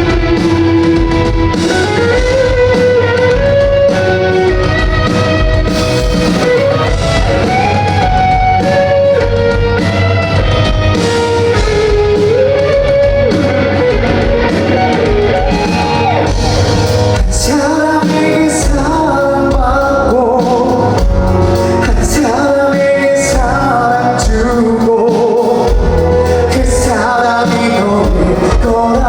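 Korean pop-rock band performing live in a large hall, a male lead vocalist singing a melodic line over guitar, bass and drums, with the hall's echo.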